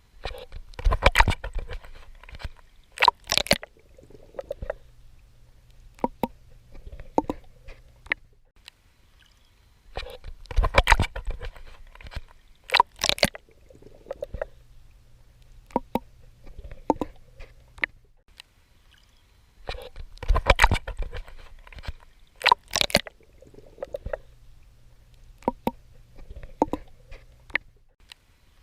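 A swimmer's strokes splashing and sloshing water, two strong splashes followed by smaller sloshes, with the same sequence repeating about every ten seconds.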